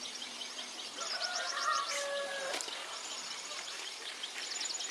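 Small birds chirping in rapid trilled bursts that repeat several times. About a second in, a steadier, lower tone sounds for about a second and a half, with a couple of sharp clicks.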